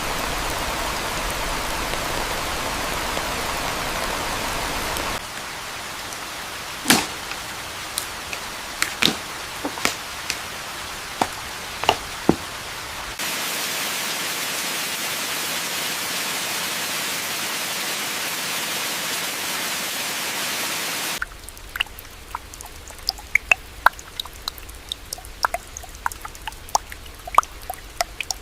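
Rain: a steady hiss of heavy rain that cuts abruptly, about every eight seconds, to quieter stretches of scattered single drips and ticks.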